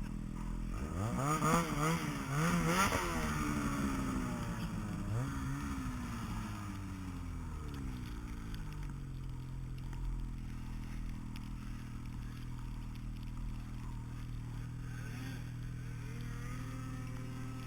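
A vehicle engine revving up and down several times, then settling into a steady low running hum.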